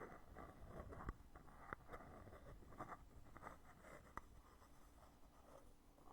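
Faint handling of a cosmetic foundation container and its heavy lid: light scratchy rubbing with several small clicks.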